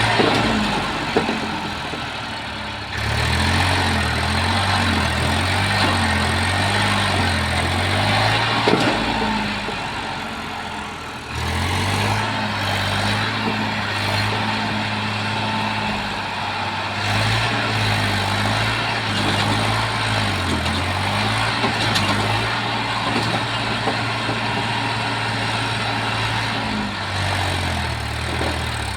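Eicher 380 tractor's diesel engine running while pulling a trolley loaded with soil, its pitch shifting up and down. The engine picks up about 3 s in and again about 11 s in, after brief dips.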